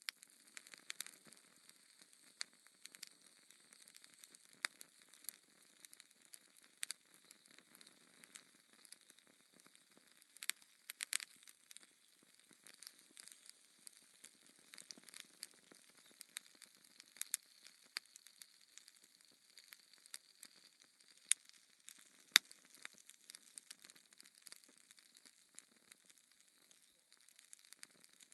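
Wood fire crackling in a fireplace: a soft hiss with irregular sharp pops and snaps, the loudest two coming close together a little past the two-thirds mark.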